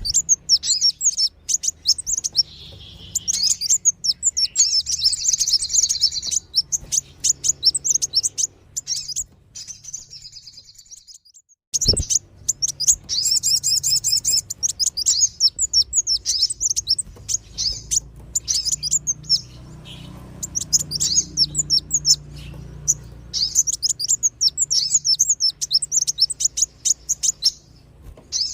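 Bird-lure recording of small songbirds, kolibri wulung (a sunbird) and sogon (a spiderhunter), giving rapid high chirping calls in dense runs. The calls break off for a moment a little after the middle, and a sharp click comes just as they resume.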